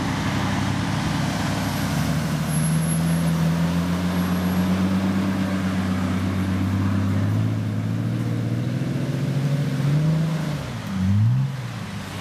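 Jeep Wrangler engine running as it drives past at low speed, louder as it comes close, then revving up briefly near the end as the Jeep climbs a steep dirt mound.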